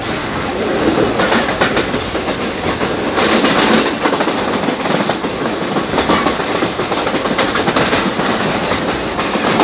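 Passenger train coach running at speed: steady loud rush of rail noise with wheels clattering over the track joints, and a brief louder hiss about three seconds in.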